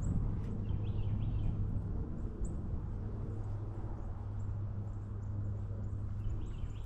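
Small birds chirping: short, high chirps scattered throughout, with a few lower calls about a second in and again near the end, over a steady low rumble.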